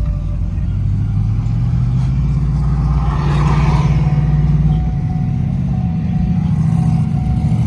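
A motor vehicle's engine running steadily nearby, with a swell of louder noise about three to four seconds in.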